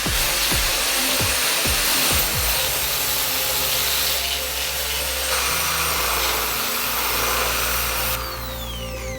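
A handheld electric power tool runs steadily, with a high whine that falls away about a second before the end. Background music plays underneath.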